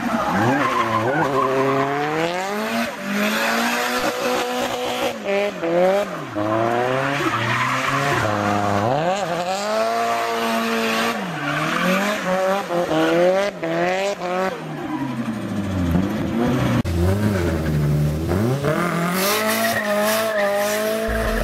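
Nissan Silvia's SR20 four-cylinder engine revving hard, its pitch climbing and dropping every couple of seconds, with tyres squealing as the car drifts.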